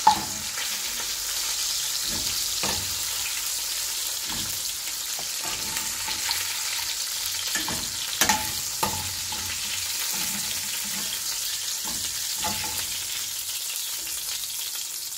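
Marinated chicken pieces sizzling as they shallow-fry in hot oil in a pan, with a steady frying hiss. A metal spoon knocks a few times as pieces are lifted out.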